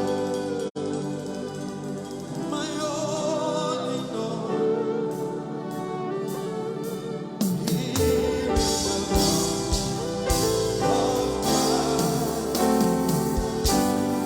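Live gospel worship music: a singing voice over sustained accompaniment, with a drum beat and bass coming in about halfway through. The sound drops out for an instant near the start.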